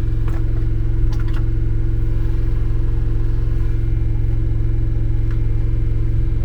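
Washing machine on its spin cycle: a loud, steady mechanical drone with a low hum, with a few faint clicks over it.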